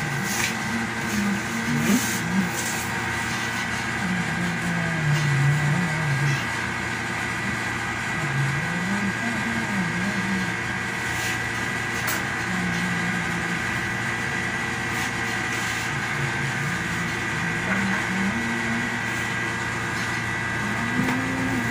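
A steady machine hum holding several fixed tones, with low, muffled voices rising and falling faintly underneath it.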